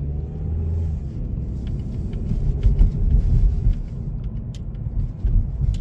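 2018 Hyundai Elantra's 2.0-litre four-cylinder engine running under way, heard from inside the cabin: a steady low engine drone at first, then low road rumble with a few louder jolts about halfway through, from driving over rough, snow-covered road.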